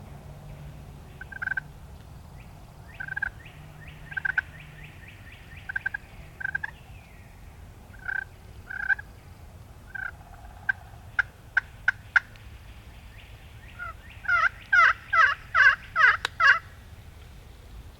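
A series of wild turkey yelps on a hunter's turkey call, then a few short, sharp notes. Near the end a wild turkey gobbler gobbles loudly, a fast rattling series that answers the calling.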